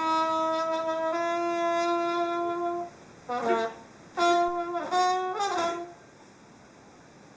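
A brass horn playing solo: a long held note that steps up a little about a second in, then a few short notes, the last ones sliding in pitch, stopping about six seconds in.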